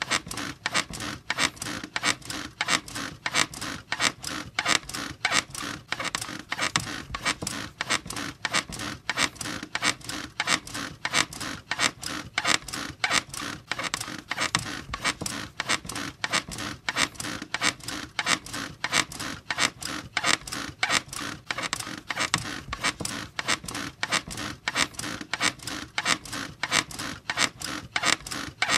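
Bed squeaking over and over in a quick, steady rhythm, several squeaks a second without a break.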